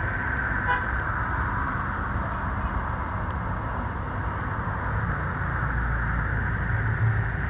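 Road vehicle running steadily, with a short horn toot a little under a second in.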